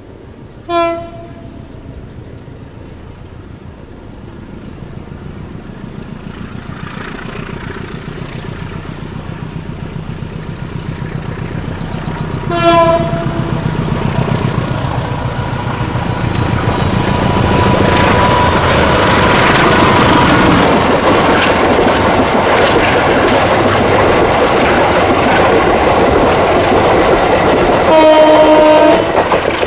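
Diesel-hauled train approaching and passing: its horn gives a short toot about a second in and another a little before the middle, then a longer blast near the end. Between them the wheel rumble and clatter over the rail joints grow louder and hold steady as the train goes by.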